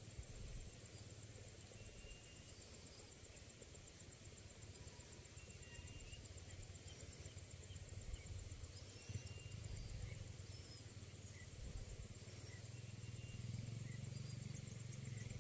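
Faint rural outdoor ambience: a steady high-pitched buzz, scattered faint short chirps, and a low rumble that grows louder near the end.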